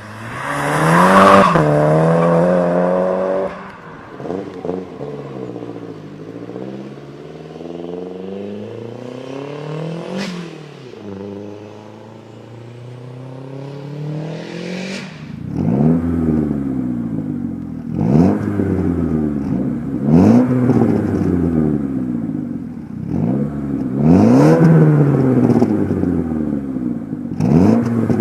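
Saab 9-5's exhaust as the engine is revved: one hard rev near the start, then slower rises and falls in pitch, then a run of short throttle blips about every two seconds in the second half.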